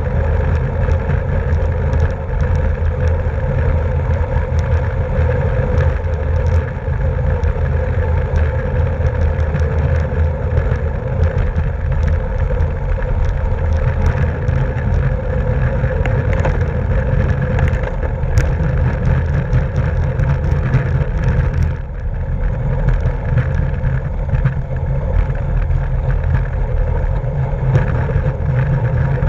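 Steady wind rush and road noise from a road bike ridden at race speed in a criterium, a low rumble over the microphone with a faint hum of tyres and drivetrain.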